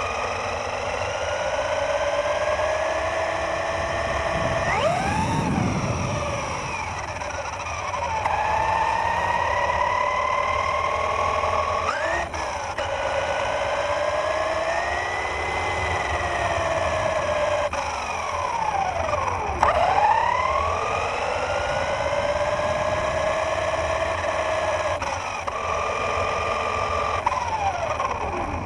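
Radio-controlled car's motor whining as it is driven, the pitch rising and falling with the throttle, with quick swoops up and down about five, twelve, twenty and twenty-eight seconds in.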